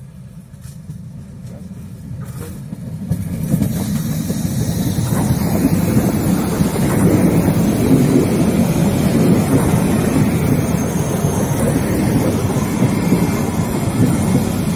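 A Train Jaune metre-gauge electric train approaching and running past close by. The rumble of its wheels on the rails grows from about three seconds in and stays loud as the cars go by.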